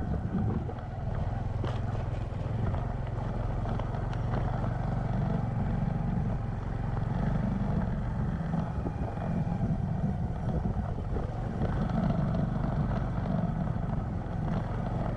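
Motorcycle engine running steadily at a cruising speed, with road and wind noise.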